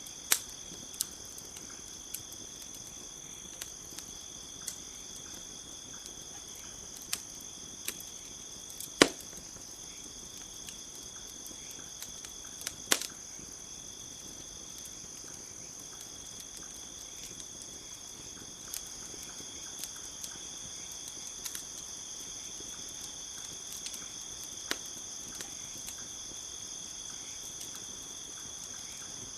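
Campfire crackling with scattered sharp pops, the loudest about nine and thirteen seconds in, over a steady high chorus of crickets.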